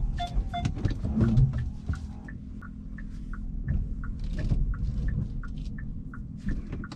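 Inside a Hyundai Kona Hybrid's cabin: a rapid electronic beeping, about two beeps a second, stops about half a second in. Quick regular clicking then goes on over low road and cabin rumble.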